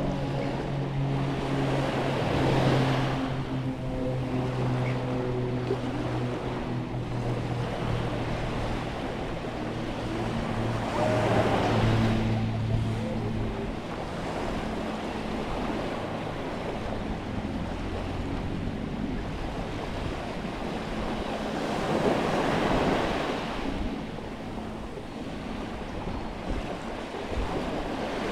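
Waves breaking on a beach, three surges about ten seconds apart, with wind on the microphone. A low engine hum runs through the first half and fades away.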